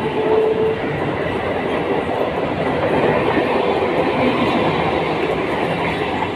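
Electric suburban local train running on the track: a steady, dense rumble of wheels on rails, with a faint held tone in the first second.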